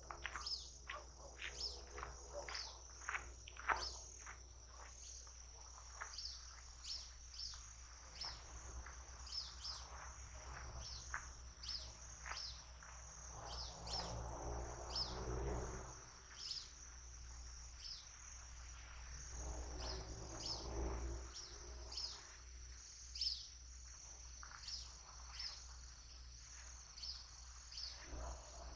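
Outdoor nature soundscape: a steady high-pitched insect trill with many short, quick chirps of small birds over it, and a low rumble underneath.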